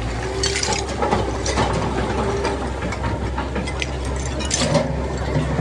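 Heavy diesel machinery running steadily with a low engine hum, overlaid with scattered clanks, creaks and short hissing bursts.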